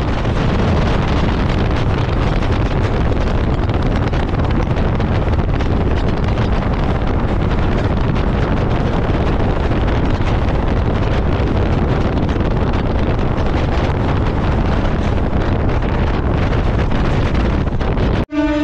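Wind buffeting the microphone over the steady rumble of a moving express train. It is loud and unbroken, and cuts off abruptly just before the end.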